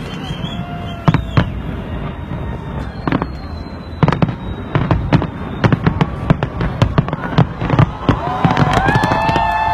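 Fireworks going off: scattered sharp bangs, coming thick and fast from about four seconds in. Near the end a crowd starts cheering and shouting over the last bangs.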